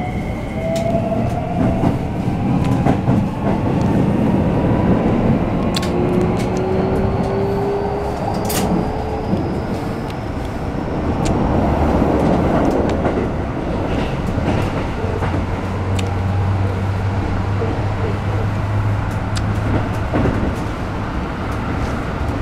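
Keikyu New 1000 series EMU heard from inside the car. The Toyo hybrid SiC VVVF inverter and traction motors whine in tones that rise in pitch through the first ten seconds or so as the train picks up speed, over a constant wheel-and-rail rumble with a few sharp clicks from rail joints.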